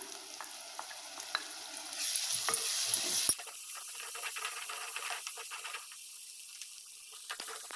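Shallots and ginger-garlic paste sizzling in hot sesame oil in a clay pot, stirred with a wooden spatula that scrapes and taps against the pot. The sizzle grows louder about two seconds in, then settles to a steady hiss.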